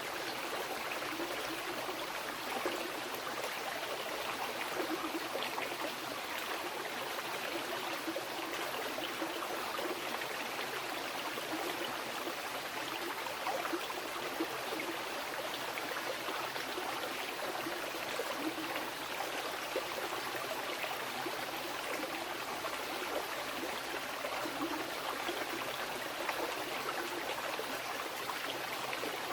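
Mountain river rushing over rocks, a steady, even wash of water with small gurgles through it.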